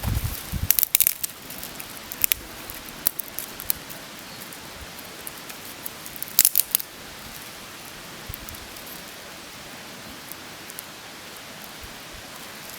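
Steady rain pattering, with a few clusters of sharp clicks from handling, about a second in and again about six seconds in.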